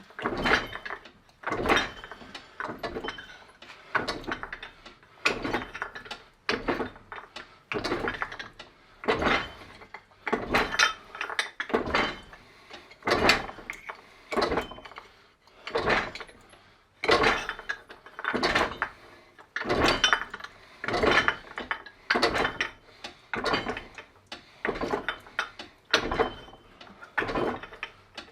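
Norton No.8 fly press worked back and forth over and over, a mechanical clank about once a second as the screw turns and the ram drives a 4-inch ball bearing down into 3 mm steel plate in a doming block, dishing it into a bowl.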